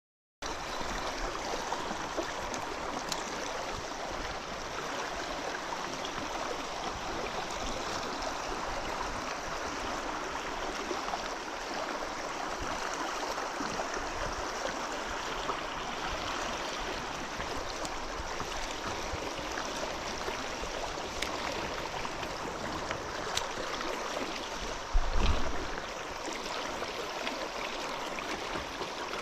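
River water running steadily, with a single dull thump about 25 seconds in.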